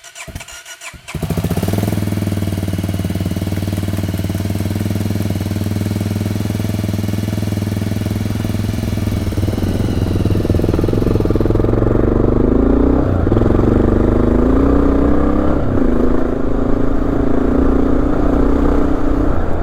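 Honda XR dual-sport motorcycle's electric starter cranking on a cold start; the engine catches about a second in and settles into a steady idle. In the second half its note wavers and shifts.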